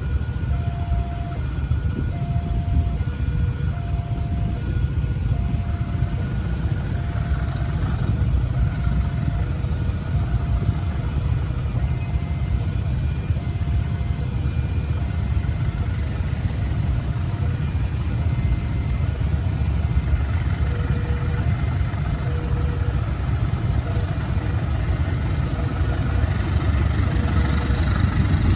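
Railway level-crossing alarm sounding a repeating two-tone electronic ding, about one tone a second, over the steady engine rumble of road vehicles idling at the crossing. A rising hiss builds near the end.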